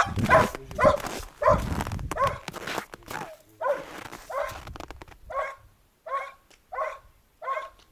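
A dog barking over and over, roughly one bark every second, the barks spacing out a little toward the end.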